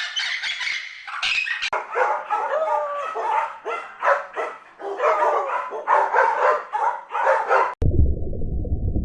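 A dog barking in quick short barks mixed with yelps and whines. Before it, a high-pitched squawking call is heard for about the first second and a half. Near the end the barking cuts off abruptly into a low rumble.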